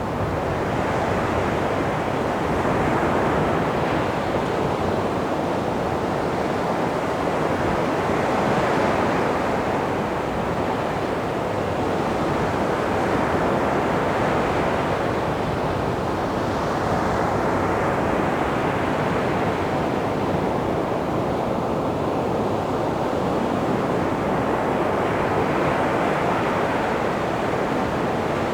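Sea waves washing onto a beach, a steady surf hiss that swells and eases every few seconds as each wave breaks and runs up the sand.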